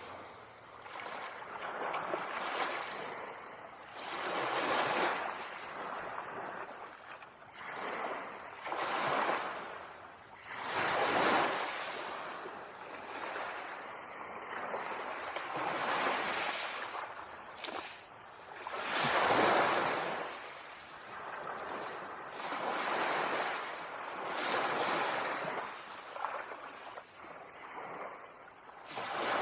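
Ocean waves breaking on a beach: repeated surges of surf hiss, each swelling and falling away every two to three seconds, a few breaking louder than the rest.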